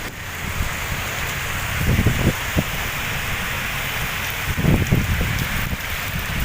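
Heavy rain pouring steadily, with gusts of strong wind buffeting the microphone about two seconds in and again about five seconds in.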